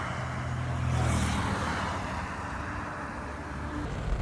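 A motor vehicle running on the road, a steady engine hum with road noise that swells about a second in and then eases off.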